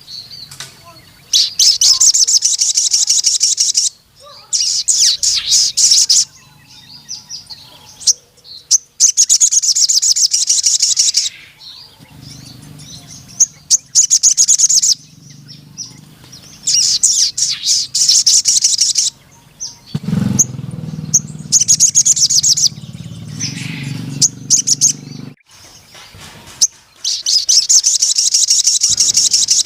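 A sogon sunbird singing in about six bursts of very rapid, high, ticking trills, each lasting about two seconds, with short pauses between. A low hum runs underneath through the middle part.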